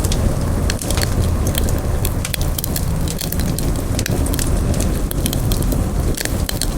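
Campfire crackling: wood burning with many sharp, irregular pops and snaps over a steady low rumble of flames.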